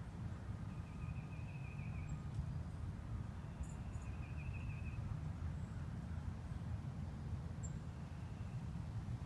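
Two short warbling bird calls, about a second and a second and a half long, and a few brief high chirps, over a steady low rumble.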